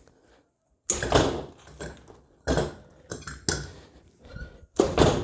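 Small nitro glow engine of an RC monster truck being cranked over in repeated short bursts, about four or five half-second goes, sputtering without catching: a starting attempt on a cold nitro engine that is not yet firing.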